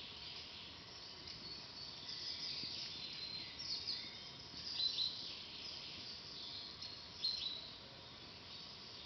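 Forest birds singing and chirping, several overlapping calls with the loudest bursts near the middle and again late on.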